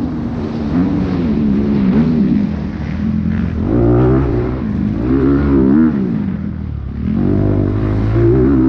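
Dirt bike engine revving up and down repeatedly as the throttle is opened and closed through a race course, its pitch rising and falling several times.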